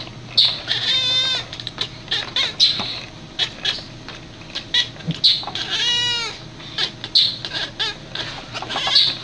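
An animal calling repeatedly in high-pitched calls with a wavering, trilling pitch, the two longest lasting under a second each, about a second in and about six seconds in, amid many short sharp chirps.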